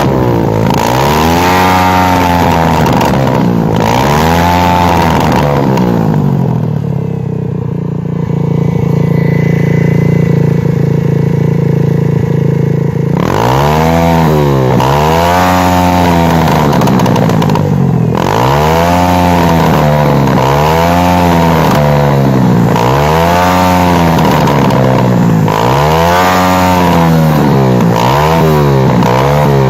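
125cc dirt bike's single-cylinder four-stroke engine revved over and over, its pitch rising and falling with each throttle blip. In the middle it settles to a steady lower running for several seconds, then the repeated revving resumes.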